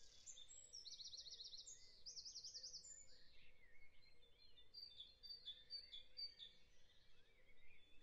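Faint birdsong: two quick warbling trills in the first three seconds, then a run of short high chirps around the middle.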